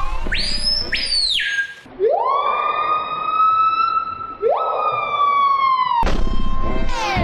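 Siren-like wail: a short high tone, then two long tones that each swoop up and hold, the second starting about halfway through.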